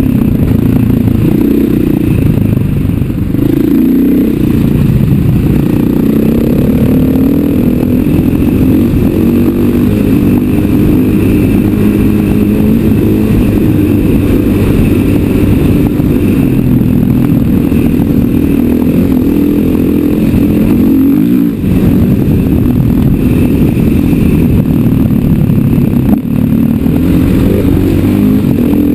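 KTM 500 EXC dirt bike's single-cylinder four-stroke engine running under way, its pitch rising and falling with the throttle, with a brief dip about 21 seconds in.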